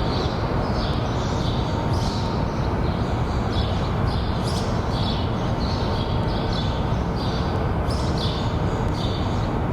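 Steady, loud rushing background noise with short high chirps recurring about once or twice a second.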